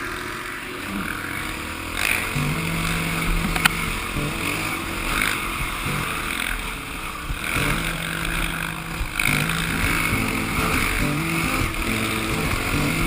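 Off-road vehicle engine running, its speed stepping up and down several times as it is driven, with a sharp click about four seconds in.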